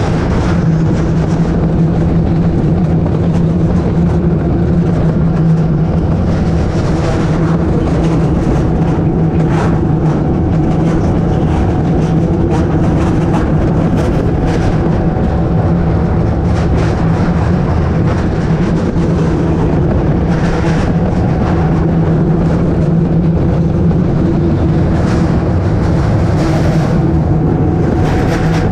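Wiegand bobkart sled running on its steel track: a steady, loud rolling noise with a low hum and scattered clicks.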